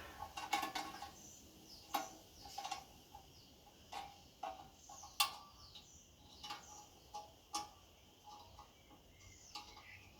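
Scattered light clicks and knocks of metal parts and tools being handled, irregular, about one or two a second, with a sharper knock about halfway through.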